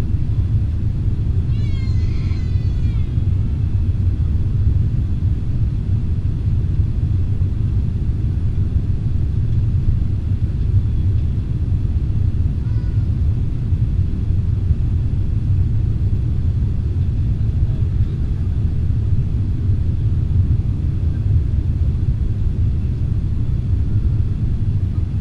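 Steady low cabin rumble of an Airbus A320 airliner on its descent: engine and airflow noise heard from inside the cabin. About two seconds in, a brief high-pitched wavering cry sounds over it.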